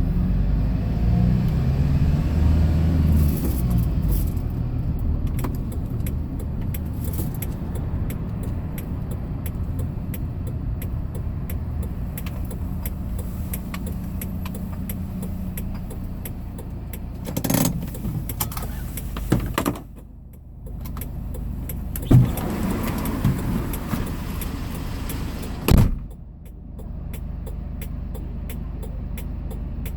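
Hyundai Porter II box truck driving, heard from inside the cab: a steady low engine and road rumble. In the second half there are a few sharp knocks, and the rumble briefly drops away about two-thirds of the way through.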